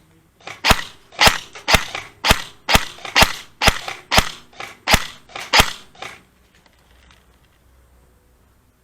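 Airsoft gun fired single shot after single shot: about ten sharp pops, roughly two a second, stopping about six seconds in.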